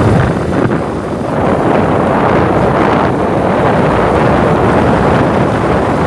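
Loud, steady wind rush buffeting the microphone of a moving motorcycle, with the bike's running noise mixed in.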